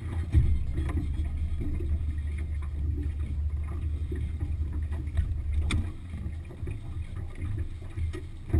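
Boat on the water: a steady, rough low rumble with a few sharp knocks, easing off a little after about five and a half seconds.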